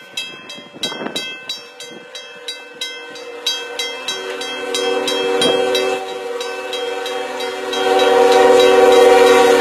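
Train horn blowing one long, steady chord of several notes, starting about two and a half seconds in and growing louder toward the end. Before it, and fading under it, a rapid even clicking comes about four times a second.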